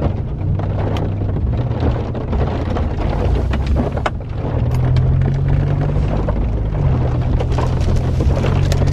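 Steady engine and road drone heard from inside a moving car's cabin, with a low hum throughout and a few brief clicks.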